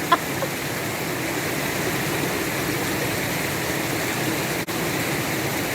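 Stream water rushing steadily over rocks, an even running-water noise with a momentary drop-out about four and a half seconds in.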